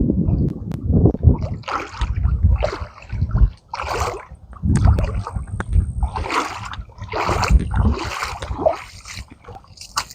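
River water splashing and sloshing in repeated irregular bursts, close to the microphone.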